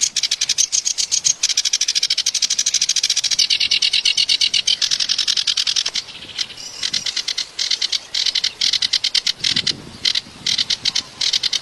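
A kerak basi (reed warbler) singing a fast, harsh, chattering song of rapidly repeated notes, with a short break about six seconds in before it resumes in choppier phrases.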